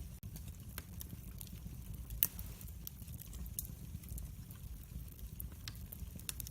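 Wood fire in a fireplace crackling: scattered pops and snaps over a low, steady rumble, with one louder crack about two seconds in.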